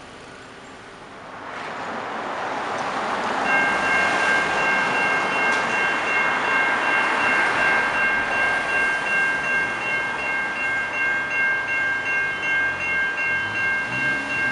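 A train approaching and running through the level crossing, a rising rush of wheel and rail noise. About three and a half seconds in, the crossing's Western Colonnades electronic bell (E-bell) starts ringing steadily as a bright, pulsing chime-like tone.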